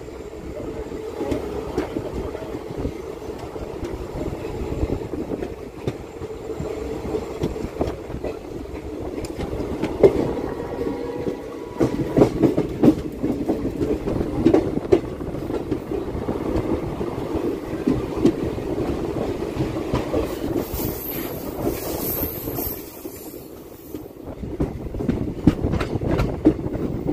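Indian Railways passenger train running, its coach wheels clacking over the rail joints over a steady rumble, heard from an open coach doorway.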